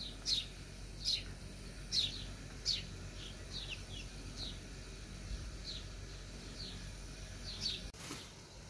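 A bird calling over and over: short, high chirps, each falling in pitch, about one a second, over a low steady rumble.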